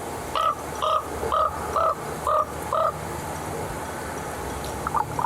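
Raven calling: six short croaking calls in an even run, about two a second, then a few quicker, shorter notes near the end, over a low steady hum.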